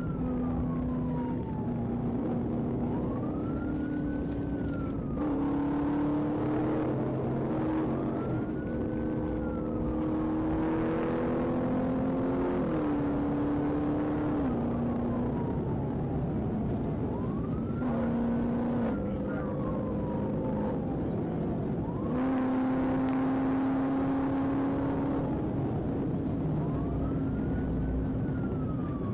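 Police car siren wailing, each slow rise and fall lasting about four to five seconds, over a car engine running hard and changing pitch as it shifts gears.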